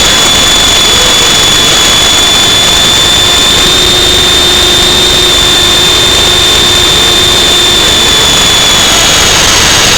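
F45 remote-control aircraft's electric motor giving a steady high whine that dips slightly near the end. It is heard under loud rushing wind buffeting the microphone in strong wind.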